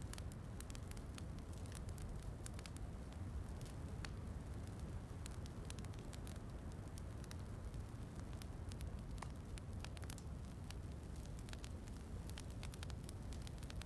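Wood fire crackling, with frequent small, sharp pops at irregular intervals over a steady low rumble of rain.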